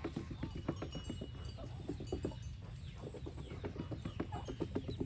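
A flock of domestic geese calling, with many short, overlapping notes coming in quick succession.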